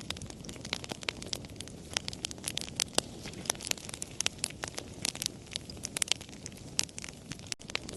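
Wood fire crackling: many sharp, irregular pops and snaps over a low, steady rumble of burning, with a momentary gap near the end.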